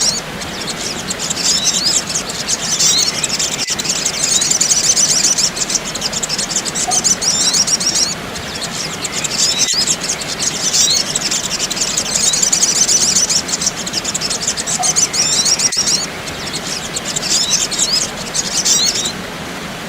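A recording of sunbirds chattering: rapid, high, twittering calls in dense bouts that repeat in a loop about every six seconds, with a faint click at each repeat, over a steady hiss.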